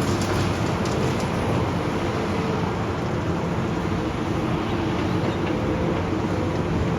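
Heavy demolition machinery's diesel engine running steadily with a constant hum, with a few light knocks in the first second.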